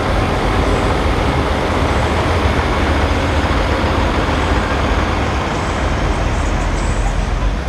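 Large truck engine running loud and steady, with a deep rumble underneath.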